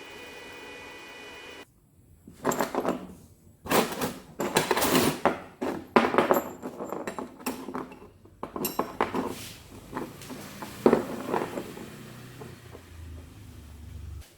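A steady hum that cuts off suddenly, followed by a run of irregular clatters, knocks and rattles of hard objects being handled.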